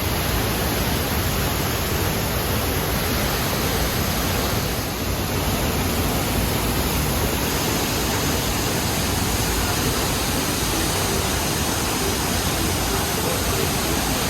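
Upper Düden waterfall: a steady, loud rush of falling water, an even roar with no breaks.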